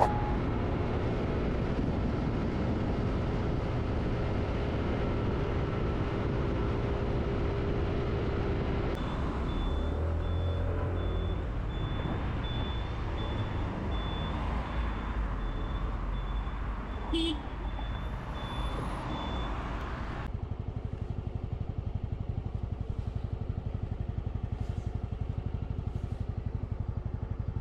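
Motorcycle engine and wind noise while riding, steady throughout. In the middle comes a run of short, evenly spaced high beeps. After about twenty seconds the sound turns duller, with a fast, even pulsing.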